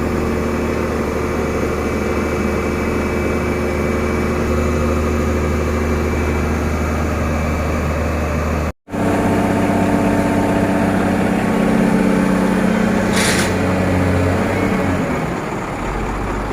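Heavy diesel engine idling steadily. The sound cuts out for an instant about nine seconds in and comes back as a different steady engine note, with a short hiss about thirteen seconds in.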